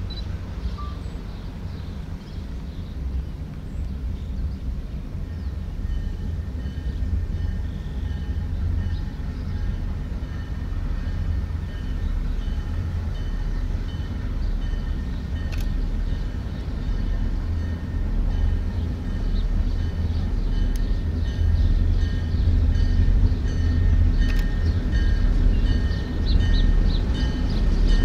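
A train approaching, its low rumble growing steadily louder, with a thin steady high tone joining about five seconds in and a few light clicks near the end.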